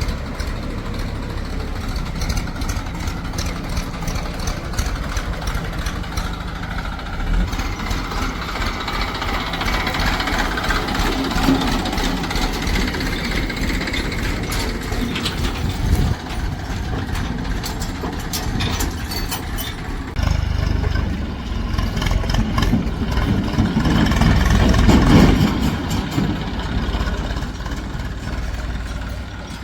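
Diesel engines of a JCB 3DX backhoe loader and farm tractors running steadily while mud is loaded, with a single knock about halfway through and the engine noise swelling to its loudest near the end.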